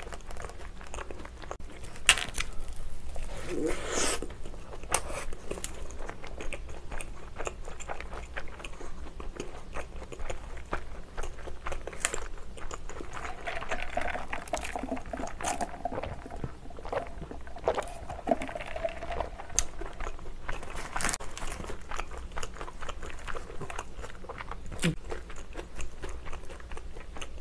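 Close-up chewing and biting of a burger: soft crunches and wet chewing noises, many small crunches in irregular succession. About halfway through comes a sip of soda through a straw.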